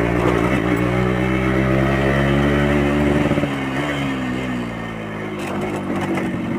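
A 1984 Yamaha RX Special's 115 cc single-cylinder two-stroke engine running under way, through a stock RX King exhaust. The note holds steady, drops in pitch and loudness a little after three seconds as the throttle eases, then picks up again near the end.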